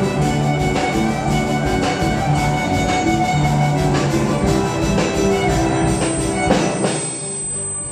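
An instrumental ensemble playing a Paraguayan polka, with a steady drum beat under held melody notes; the sound thins out briefly near the end.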